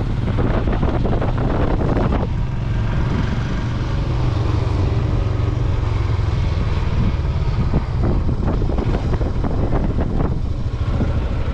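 Royal Enfield Himalayan 411 cc single-cylinder motorcycle engine running steadily under way.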